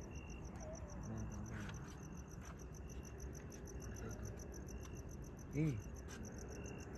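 Crickets chirping in a steady, fast-pulsing chorus, with a lower short chirp repeating about once a second. A brief call stands out about five and a half seconds in.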